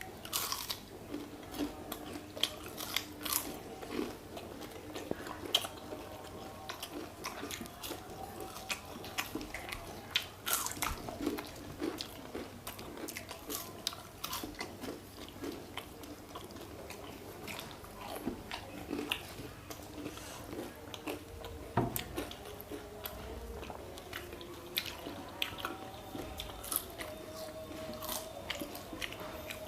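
People biting and chewing crisp, syrupy jalebi, with repeated short crunches and wet chewing throughout.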